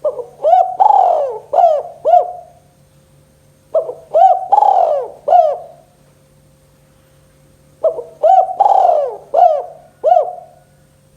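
Spotted dove (tekukur) cooing in its 'kuk 2' song type: three similar phrases of several arched coo notes, each lasting about two and a half seconds and about four seconds apart.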